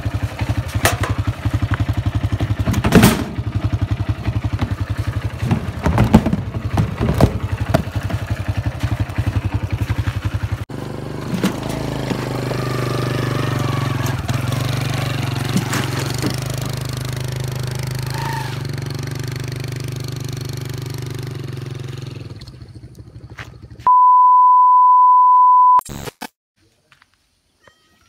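Small underbone motorcycle's single-cylinder engine running with a rapid even putter and a few knocks, then running more smoothly as the bike rides across the yard. Near the end a loud steady high beep lasts about two seconds.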